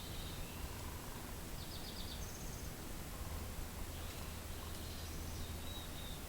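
Steady wind rumble and hiss with faint, high-pitched wild bird calls over it. A short rapid trill comes about two seconds in, more chirps follow, and a held whistled note comes near the end.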